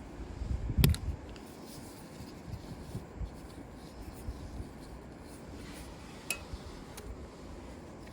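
A single loud knock about a second in, then a few faint sharp clicks, over steady low background noise.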